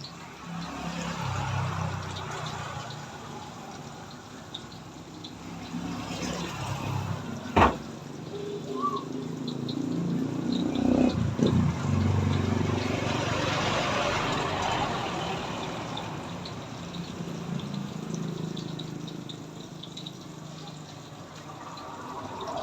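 Water running and splashing, swelling and easing off in stretches, with one sharp knock about halfway through.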